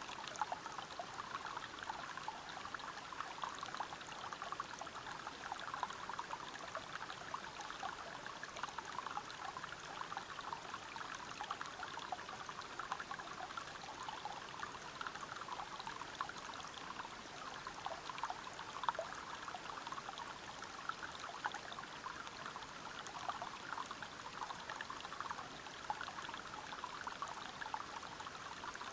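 River water flowing over rocks at a small waterfall: a steady rush dotted with many small splashes.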